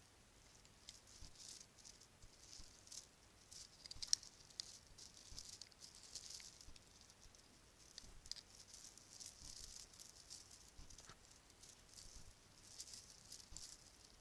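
Bracelets being handled and shaken, a soft rattling that comes and goes in waves, with a few sharper clicks; the loudest click is about four seconds in.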